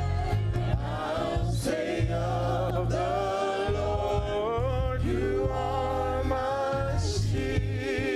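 Gospel music: voices singing held notes with vibrato over a steady low accompaniment.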